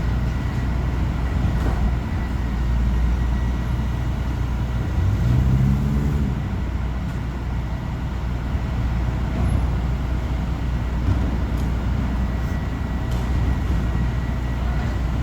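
Recycling collection truck's engine running steadily, with a brief rise in engine speed about five seconds in.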